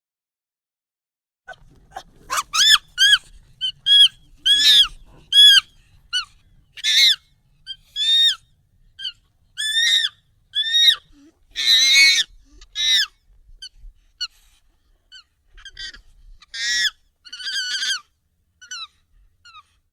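Monkey calls, sped up and pitched up: a run of short, high, arching squeals, about two a second, starting about a second and a half in.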